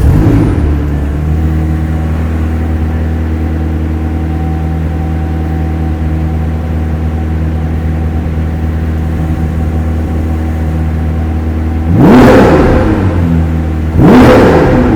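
McLaren 765LT's twin-turbo V8 idling steadily, then revved twice with short throttle blips about two seconds apart near the end, pitch rising and falling each time.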